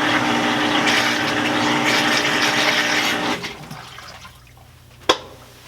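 An Admiral (Whirlpool-built) belt-drive washing machine pumping out its wash water during the neutral drain: a steady rush of draining water over the hum of the motor and pump. About three seconds in, the noise drops away sharply to a quiet low hum, and a single sharp click follows near the end.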